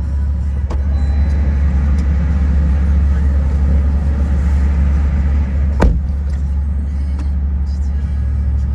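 Boat motor running steadily, a heavy low rumble, with one sharp knock about six seconds in.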